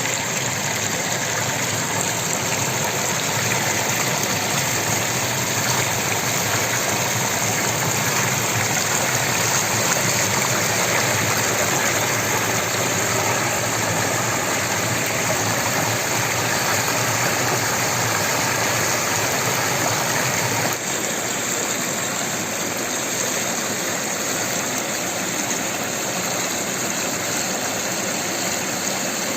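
Water of a stream rushing and splashing steadily, a dense even noise. About twenty seconds in the sound changes abruptly, the deep rumble dropping away and leaving a lighter rush of water.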